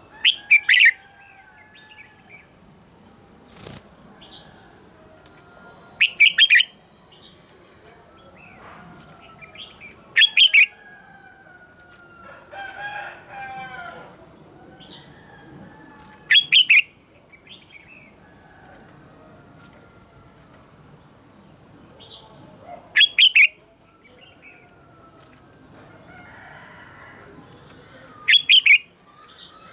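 Red-whiskered bulbul singing: a loud, quick phrase about every five or six seconds, six in all, with softer chirps and whistled notes in between.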